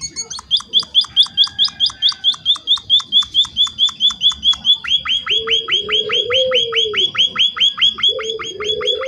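Munia (emprit) calling in a fast, even series of short chirps, about four or five a second, the chirps changing shape about five seconds in. A lower, wavering sound comes in under them twice in the second half.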